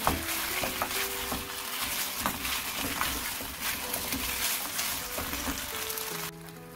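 Sauce-glazed pork ribs sizzling and crackling in a frying pan as a silicone spatula stirs and turns them, with scattered small knocks. The sizzle cuts off suddenly near the end.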